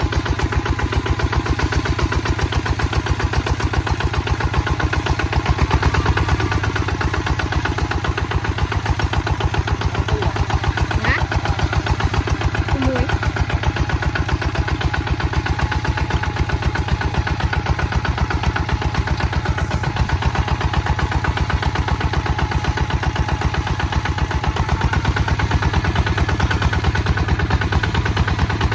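Kubota ZT 155 DI two-wheel walking tractor's single-cylinder diesel engine running steadily, with a rapid, even chugging beat.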